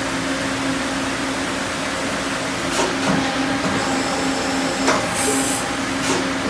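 Doosan Puma 400 CNC lathe under power, giving a steady hum with a constant low tone. A few sharp clicks come through, and a short hiss of air a little past five seconds in.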